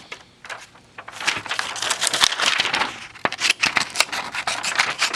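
Small, very sharp butterfly-shaped embroidery scissors cutting paper. Paper rustles from about a second in, then a quick run of sharp snips follows from about three seconds.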